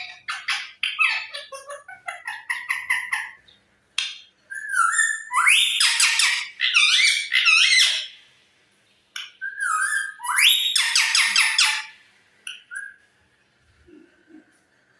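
A pet parrot calling loudly in a string of rapid chattering notes. It follows with two longer bursts, each starting with a short whistle that rises into fast repeated squawking notes.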